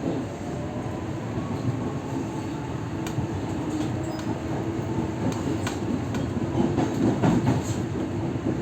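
Electric commuter train pulling out of a station, heard from inside the carriage: a steady low rumble, with a faint rising motor whine at the start and several wheel clacks over rail joints in the second half, louder toward the end.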